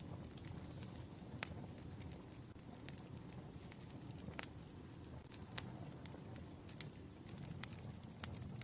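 Wood fire crackling: a steady low rumble of burning logs with irregular sharp pops, the loudest about a second and a half in and near the end.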